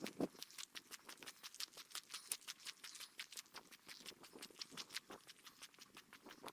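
Footsteps on a forest trail, sped up about three times into a fast, faint patter of short steps, several a second.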